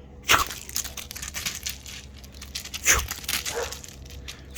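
German Shepherd scrambling after thrown rocks, with crunching and scraping of rocks and gravel underfoot. Two louder sudden crunches come about a third of a second in and again near three seconds in.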